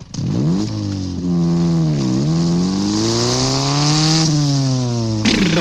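Motorcycle engine revving on a record: the pitch climbs, dips about two seconds in, then rises and slowly falls again. The band's music comes in near the end.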